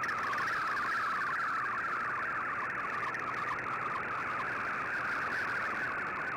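Shortwave digital-mode data signal received on an Icom IC-R8600: a steady warble of rapidly hopping tones, with static hiss underneath.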